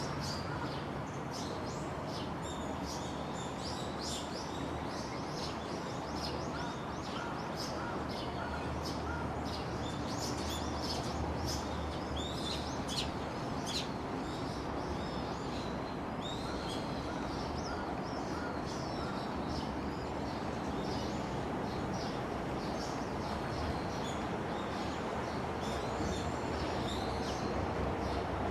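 Many small birds chirping and twittering, short high calls overlapping throughout, over a steady background noise.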